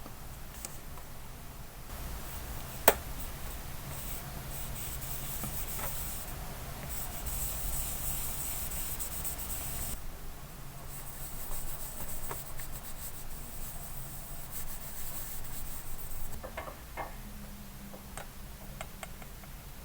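Hand rubbing and scraping on a small diecast model car body, with a single sharp click about three seconds in and long stretches of hiss in the middle.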